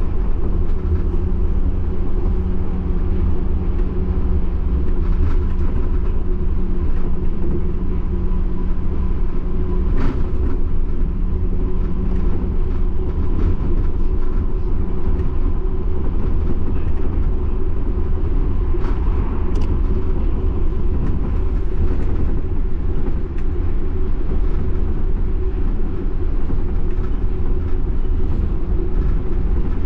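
Running noise of a Yurikamome rubber-tyred automated guideway train, heard inside the cabin: a steady low rumble of the tyres on the concrete guideway. A steady hum underneath drops away about twelve seconds in, and a few faint clicks are scattered through it.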